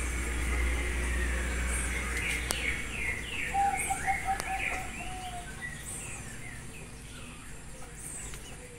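Birds chirping, with many short rising and falling calls and a quick run of repeated notes about halfway through. A steady low rumble underneath stops about a third of the way in.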